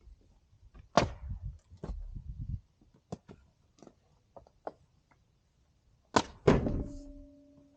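A series of heavy knocks and thuds at uneven intervals: a loud one about a second in, a few lighter ones in the middle, and a loud pair near the end that leaves a brief ringing tone.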